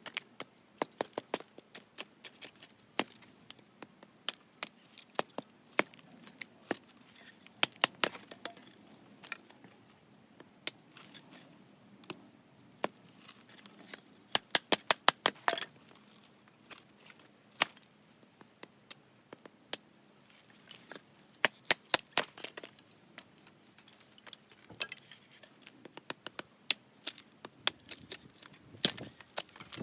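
Hatchet chopping firewood into kindling: sharp, irregular knocks of the blade into the wood, often coming in quick bursts of several strikes.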